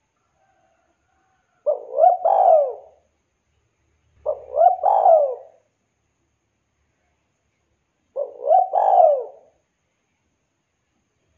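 Spotted dove (tekukur) cooing: three phrases of a few arching notes each, a short note followed by two longer ones, spaced a few seconds apart with silence between.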